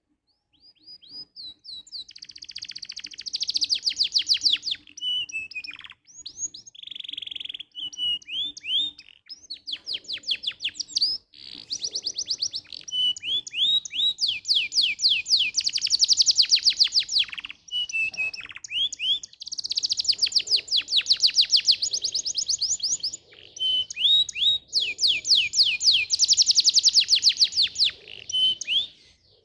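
Domestic canary in full song: long, fast rolls and trills of rapidly repeated notes, broken by a few short pauses and single chirps between phrases.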